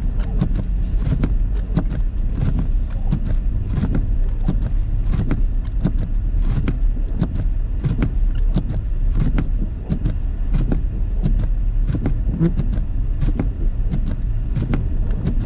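Car driving on a snow-covered road, heard from inside the cabin: a steady low rumble of tyres and engine with frequent irregular knocks and thuds.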